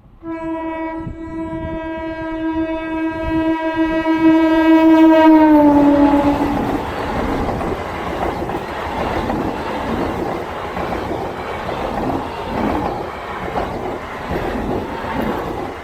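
ICF local train's horn sounding one long blast as the train approaches at speed, its pitch dropping about six seconds in as it passes. The horn gives way to the loud rush and clatter of the coaches running over the track.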